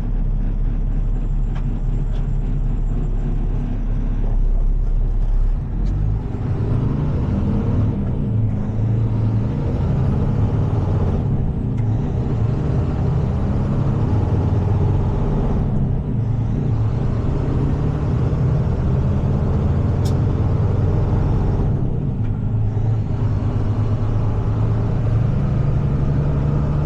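Heavy tow truck's engine pulling through the gears while driving: a steady low drone, with a faint high whine that climbs and then drops away at each of several gear changes.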